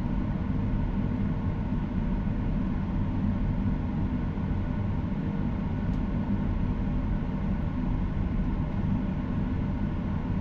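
Steady cabin noise inside a Boeing 737-800: a low, even rumble of engine and airflow with a constant hum of several steady tones, unchanging throughout.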